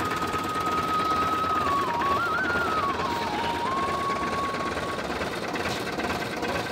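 Sonalika Tiger 60 Max tractor's diesel engine running steadily. A single high tone drifts up and down in small steps over it.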